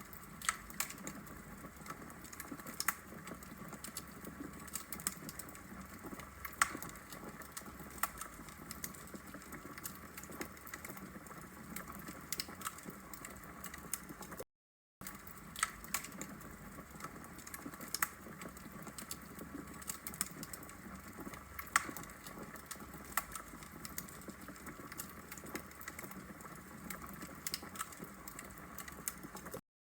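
Wood fire burning in a fireplace: a steady hiss of burning logs with frequent, irregular sharp crackles and pops. The sound cuts out completely for a moment about halfway through.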